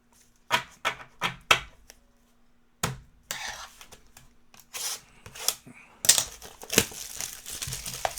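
Wrapping being torn and crinkled as a trading-card hobby box and its packs are opened: a few sharp snaps in the first three seconds, then continuous crinkling with further snaps.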